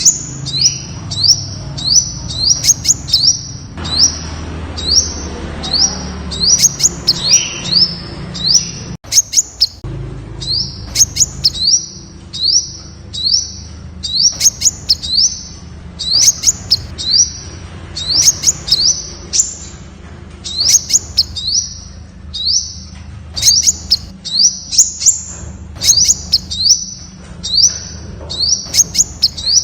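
Temminck's sunbird calling: a continuous run of short, high, sharp notes, each a quick pitch sweep, about two or three a second, with a brief break about nine seconds in.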